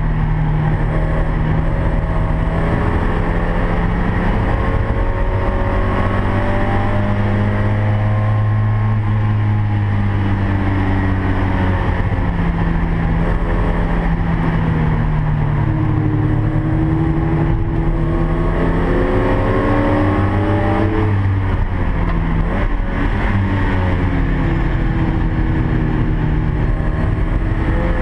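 Mazda MX-5's four-cylinder engine heard from inside the cabin, running hard under load around a race circuit. The revs climb several times and drop briefly about two-thirds of the way through, with steady road and wind noise underneath.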